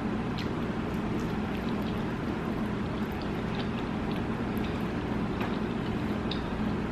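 A person chewing a chicken wing, with faint scattered mouth clicks, over a steady background hiss and low hum.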